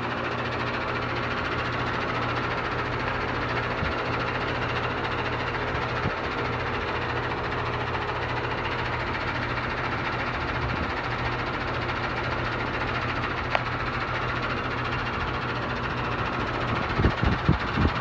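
Amana central air conditioner's outdoor condensing unit running in cool mode: a steady hum from the compressor under the even whoosh of the condenser fan. A few uneven knocks come near the end.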